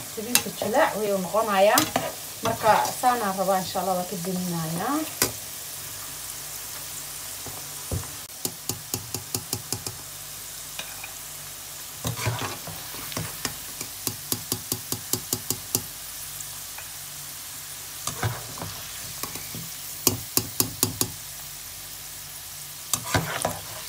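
Raisins and nuts sizzling steadily in hot oil in a non-stick wok, stirred with a metal slotted spatula. For the first few seconds the spatula squeaks as it scrapes the pan, then it clicks against the pan in quick runs of strokes, about three or four a second.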